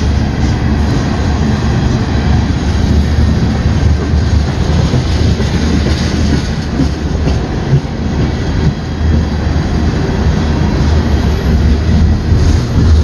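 Train of empty ethanol tank cars rolling past: a loud, steady rumble and rattle of steel wheels on the rails.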